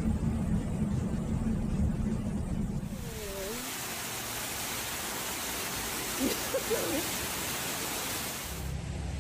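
A low rumble, then an abrupt change to a steady rushing hiss of water, with a few faint short gliding calls in it. Near the end it cuts back to the low rumble.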